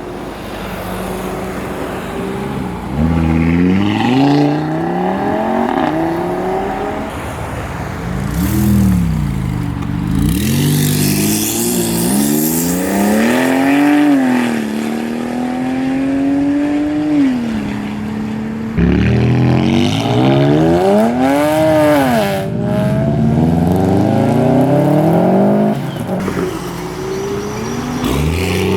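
A car engine revving repeatedly, its pitch climbing, held high for a few seconds, then falling back, several times over.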